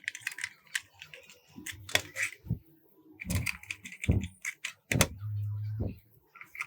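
Irregular clicks and knocks of small hard parts being handled, heavier knocks in the middle, with a short low hum about five seconds in.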